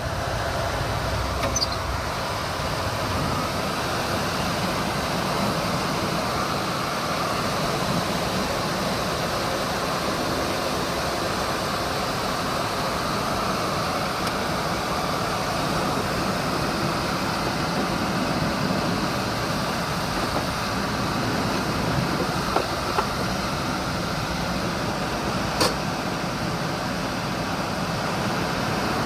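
Kenworth T800 truck idling with its air conditioning running, a steady even hum and rush of air; the A/C has been brought back to life after what looks like a blown fuse. A few short sharp clicks come near the end.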